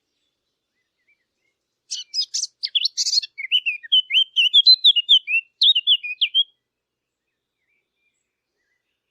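A fig bird, a Sylvia warbler, sings one song phrase starting about two seconds in. It opens with a few scratchy chattering notes, then runs into a quick series of clear whistled warbling notes, and stops about two-thirds of the way through.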